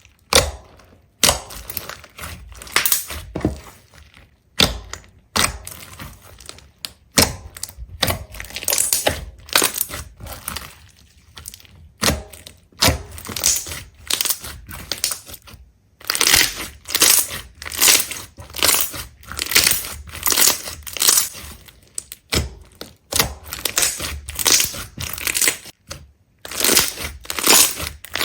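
Repeated crisp crunching and crackling of something brittle being crushed, in quick irregular clusters with brief pauses between them.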